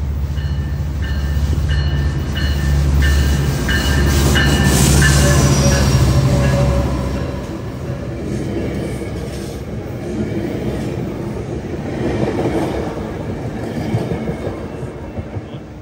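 A Metrolink commuter train passing close by. The diesel locomotive's engine rumble is loud for the first seven seconds or so, with a high ringing repeated about every two-thirds of a second. Then the bilevel passenger cars roll past with steady wheel-on-rail noise and a few sharp clicks near the end.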